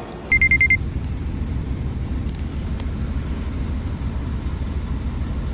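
Shuttle bus running, a steady low rumble heard from inside. It opens with a half-second burst of rapid, high electronic beeps.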